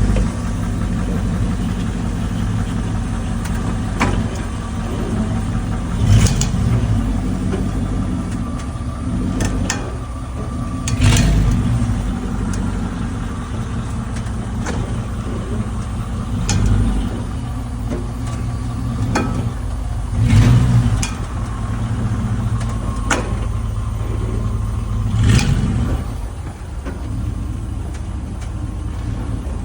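2005 Chevy Tahoe running and accelerating, with a steady low drone that swells every few seconds. Sharp cracking noises come about ten times, at uneven intervals a few seconds apart: the cracking noise it makes when accelerating.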